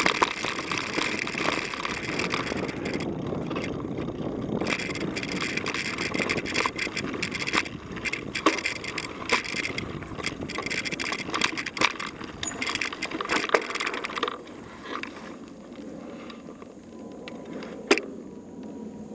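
Mountain bike riding down a dirt trail: tyre noise on the ground with frequent rattling knocks from the bike over bumps. About 14 seconds in it gets quieter as the bike slows, with one sharp click near the end.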